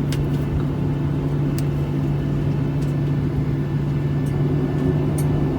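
Airliner cabin noise while taxiing after landing: a steady low rumble with a strong steady hum that cuts off near the end, and a few faint clicks.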